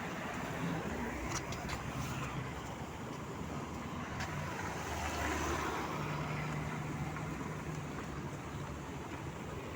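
Tram running along the rails, heard from inside the car: a steady rumble of wheels and motor, with a few sharp clicks about a second and a half in and a low hum from about six to eight seconds in.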